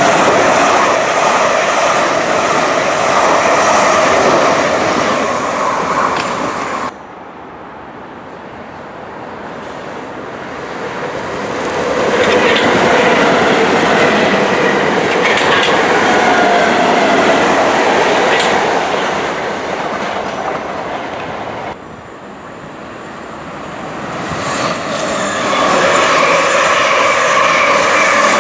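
Electric multiple-unit trains passing close by at speed, one after another, including a red South West Trains Class 455. The sound drops abruptly about seven seconds in and again about twenty-two seconds in, where the clips change, and each time builds up again as the next train approaches.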